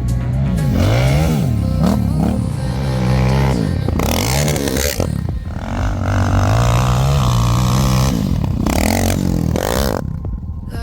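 Quad bike (ATV) engine running under load off-road, its pitch rising and falling repeatedly as the throttle is worked, with brief bursts of rattling noise.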